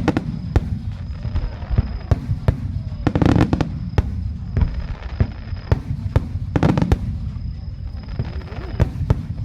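Aerial fireworks display: a rapid run of shell bursts booming over a continuous low rumble. Thicker bursts of crackling come about three seconds in, again near seven seconds, and at the end.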